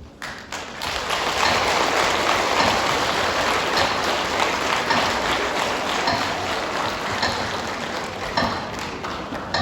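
Audience applauding at the end of a song, starting about half a second in, holding steady, then thinning near the end.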